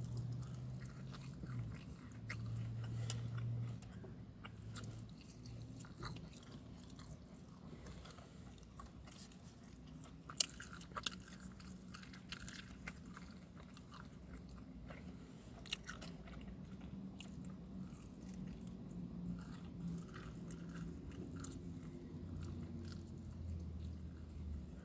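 Close-up chewing and biting of food, with small mouth clicks and smacks scattered throughout. A low hum sits underneath and is loudest for the first few seconds.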